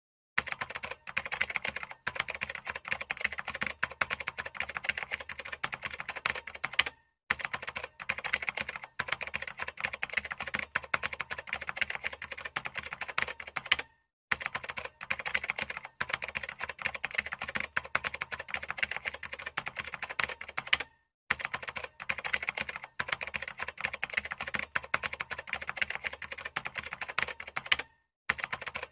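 Typing sound effect: rapid keyboard key clicks in runs of about seven seconds, each run broken off by a brief silence before the next begins.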